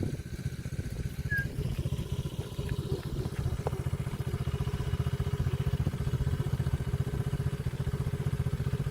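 A small engine running steadily with a fast, even beat, growing slightly louder about halfway through.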